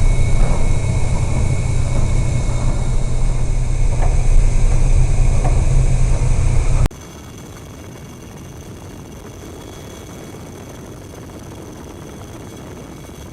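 Loud, deep rumble aboard a cargo ship labouring in a storm at sea. It cuts off abruptly about seven seconds in, leaving a much quieter steady hiss.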